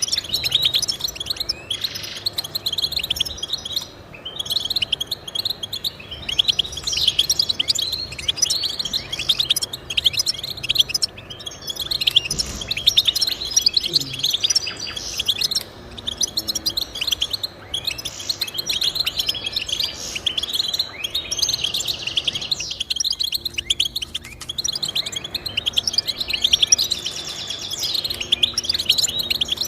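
Finch singing a rapid, continuous twittering song of trills and quick chirps.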